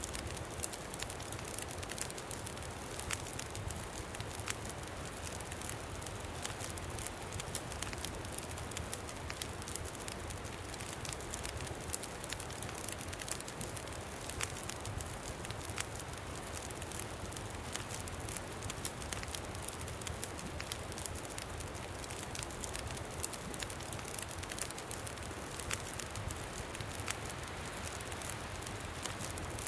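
Campfire crackling, with frequent small irregular pops, over a steady rush of wind.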